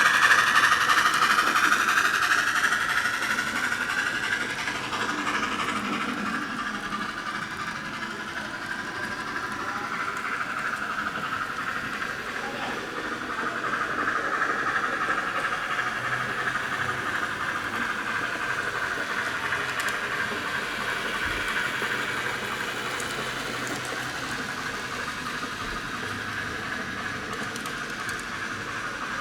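N scale model train running on the layout's track, a steady whirring hiss that is loudest at the start, fades, then swells again about halfway through.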